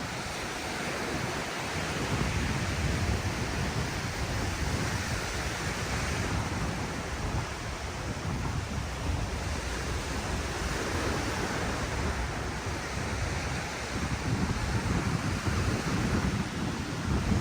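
Ocean surf washing onto the beach in a steady hiss, with wind buffeting the microphone in uneven low rumbles.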